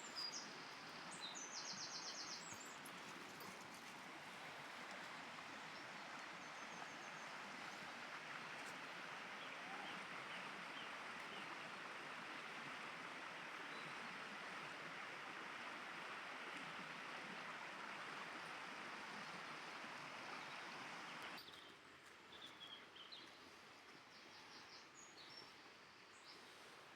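A steady rushing noise outdoors, with birds chirping briefly near the start and again near the end; the rushing stops suddenly about 21 seconds in, leaving quieter background.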